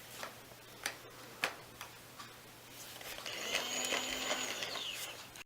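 Toy drill: a few plastic clicks as the bit is fitted, then its small battery motor whirs steadily for about two seconds and winds down with a falling whine near the end.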